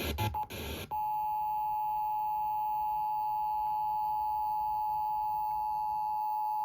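Emergency Alert System two-tone attention signal over a radio broadcast: two steady pure tones sounded together, starting about a second in and holding without change. It is the alarm that comes before a severe thunderstorm warning message.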